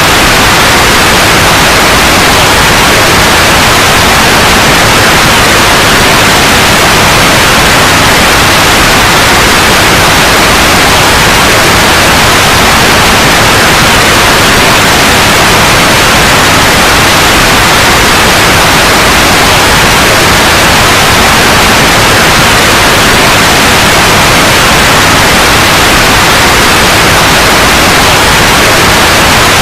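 Loud, steady white noise that hisses evenly and never changes.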